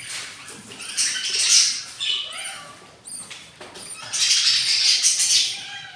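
Newly hatched budgerigar chicks giving high, squeaky begging calls for food, in two loud bursts.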